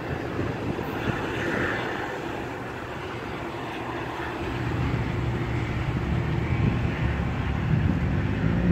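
Metra commuter train pulling away, its cars rumbling over the track, with a diesel locomotive's low drone growing louder from about halfway through.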